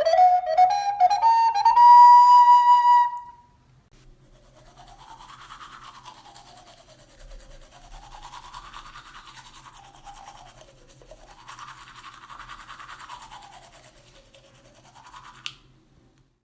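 A flute climbs a run of notes and holds a high note, stopping about three seconds in. About a second later a toothbrush starts scrubbing teeth, a steady brushing whose tone sweeps slowly up and down, and it stops shortly before the end.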